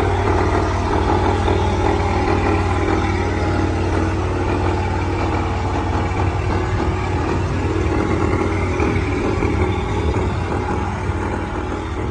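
Combine harvester's diesel engine running steadily, with a low hum and the dense mechanical noise of its working machinery over it.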